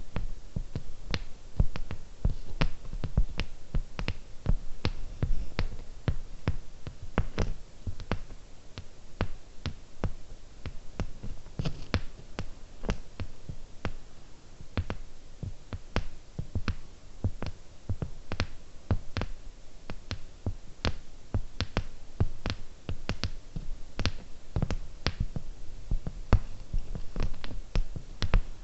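Fingernails tapping slowly and irregularly on hard jewel-like objects, close to the microphone: sharp clicks about two to three a second, many with a dull low thud under them.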